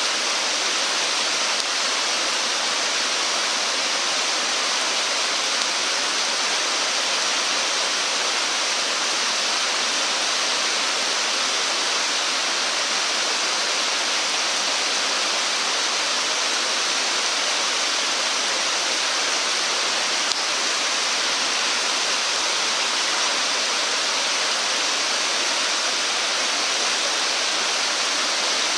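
Flowing stream water rushing steadily, an even hiss with no breaks or changes.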